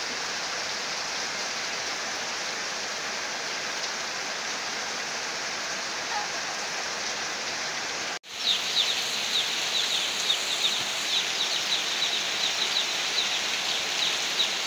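Heavy rain pouring steadily onto a yard and roof, a constant hiss. It cuts out abruptly about eight seconds in and comes back, now with a fast run of short, high chirps repeating several times a second over the rain.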